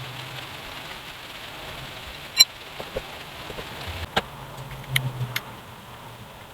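A few sharp clinks over a steady hiss, the loudest about two and a half seconds in, with a low hum coming and going.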